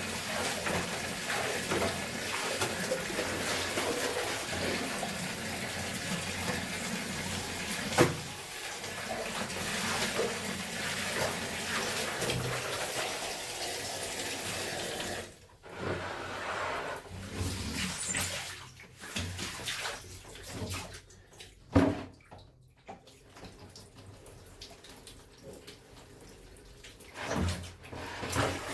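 Water running steadily, as from a tap into a tub or bucket, that stops about halfway through. After that come intermittent splashes and sloshing of water, as clothes are worked by hand, with a couple of sharp knocks.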